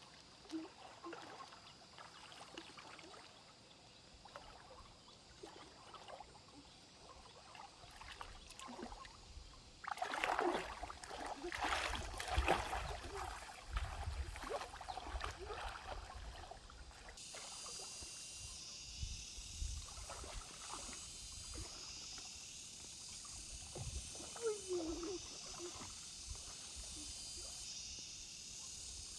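Water splashing and sloshing in a shallow stream, loudest and busiest about a third of the way in. A steady high hiss joins about halfway through.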